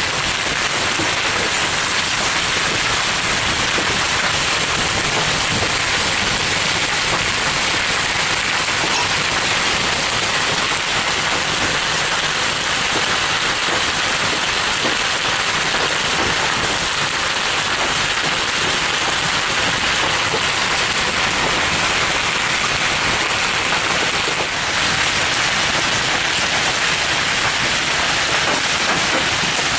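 A hailstorm with heavy rain: a steady, dense pelting of many hailstones and raindrops, loud throughout, easing off only for a moment about 24 seconds in.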